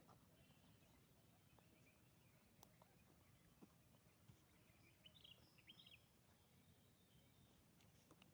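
Near silence: faint outdoor ambience with a few short, faint bird chirps about five to six seconds in and a couple of faint clicks.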